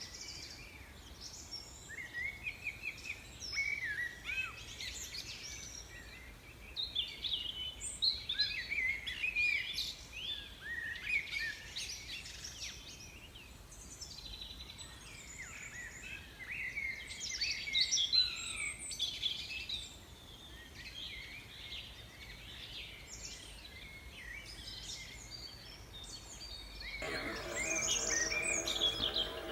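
Small birds chirping and twittering in a fast run of short, quickly gliding high notes, in rises and lulls. Near the end a different, steadier sound made of several held tones comes in.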